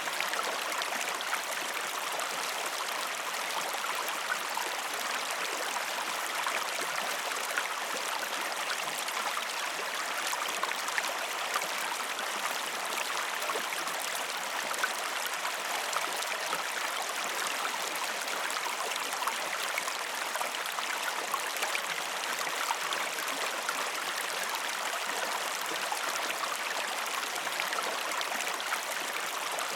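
Steady running water of a stream, an even rushing without a break.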